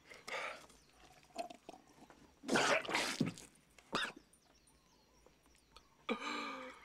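A man's wordless vocal noises: breathy bursts like coughing or spluttering, the loudest about halfway through, then a short voiced sound near the end.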